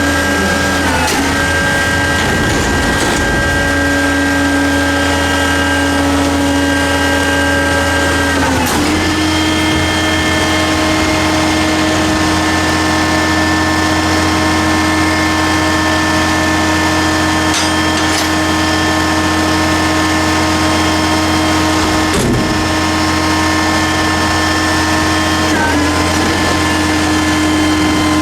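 Hydraulic pump whine on a 1995 Ford L8000 garbage truck with a Loadmaster refuse body, running steadily under the diesel engine. Its pitch steps up slightly about nine seconds in and dips briefly twice near the end.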